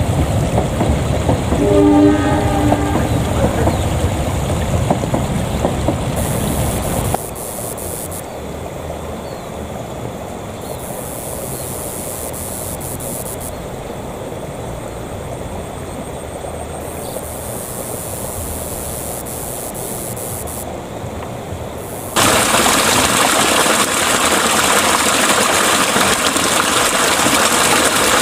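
Passenger train running past, with its horn sounding briefly about two seconds in. At about seven seconds the train sound cuts off to a quieter steady outdoor background, and at about 22 seconds a loud steady splashing of water pouring from a pipe into a pool begins.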